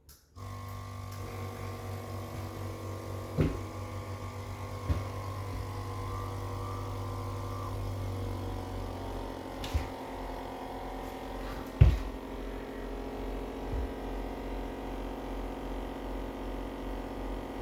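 Steady electric hum with several fixed pitch lines, starting abruptly just after the opening, broken by a handful of short knocks, the loudest about twelve seconds in.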